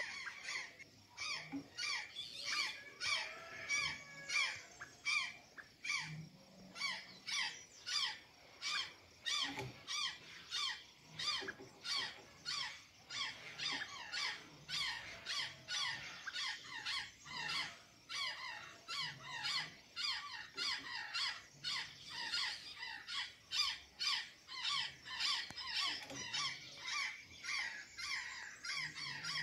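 Azure jays giving a long run of short, squeaky calls, about two a second, without a break.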